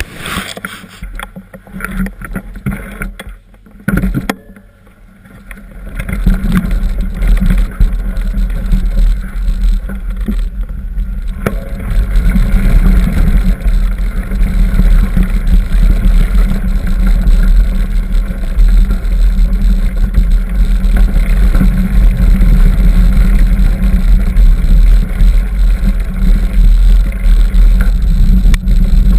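Bicycle riding over a dirt trail: a loud, rough rumble and rattle of the bike over the ground, with wind buffeting the microphone. It eases off for a few seconds near the start, then runs steady and heavy.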